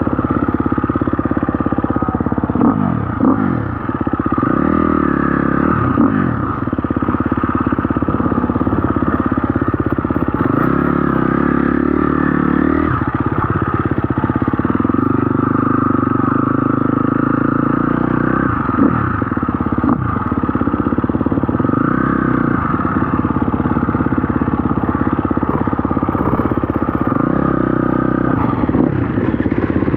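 KTM SX-F 250 dirt bike's single-cylinder four-stroke engine under way on a trail, its revs rising and falling repeatedly as the throttle is worked and the gears are changed.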